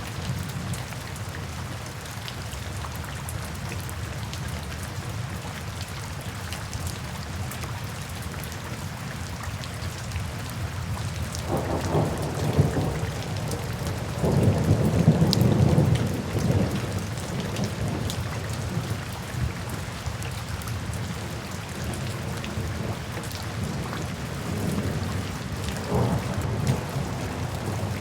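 Steady rain falling, with rolls of low thunder rumbling about halfway through, the loudest just past the middle and a fainter one near the end.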